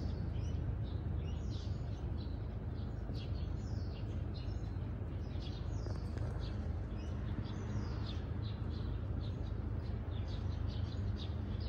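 Birds chirping over and over in short, high-pitched calls above a steady low rumble.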